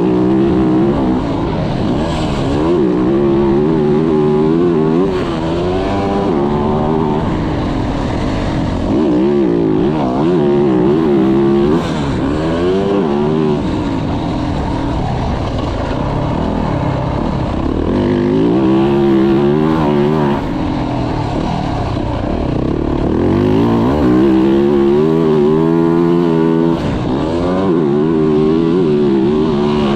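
2024 Yamaha YZ450F's single-cylinder four-stroke engine revving hard as the motocross bike is ridden around the track. Its pitch climbs and drops over and over with the throttle and gear changes.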